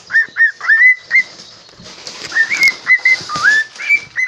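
Pet cockatiel whistling: a quick run of short notes in the first second, then after a short pause more whistled notes, some sliding upward.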